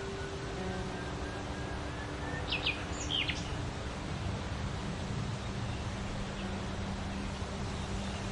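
A small bird gives a quick cluster of three or four sharp, high chirps about two and a half seconds in, over a steady low outdoor hum.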